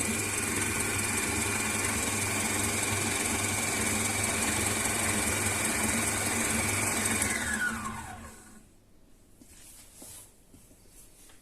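Electric kitchen mixer running steadily as it mixes fat into flour for shortcrust pastry, then switched off about eight seconds in, its motor whine falling in pitch as it winds down. Faint small knocks follow.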